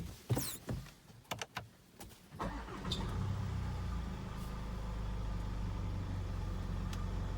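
A few short clicks, then the Land Rover Discovery Sport's 2.0-litre TD4 four-cylinder diesel engine is started by push button about two and a half seconds in, catching at once and settling into a steady idle.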